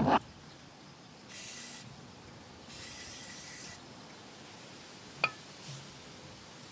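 Two short hissing bursts of aerosol cleaner sprayed onto a carburetor during cleaning, the first about half a second long and the second about a second. A single sharp click follows a couple of seconds later.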